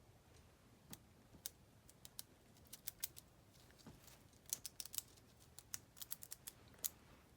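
Irregular small clicks and taps, coming thicker about halfway through, from a paintbrush loaded with chalk paint being tapped and flicked to splatter paint over a journal page.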